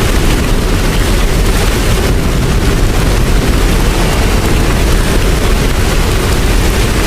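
Steady heavy rain, a dense even hiss with a deep rumble underneath.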